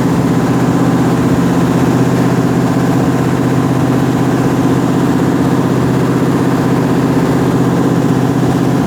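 Khlong Saen Saep canal boat's engine running steadily, loud and unchanging.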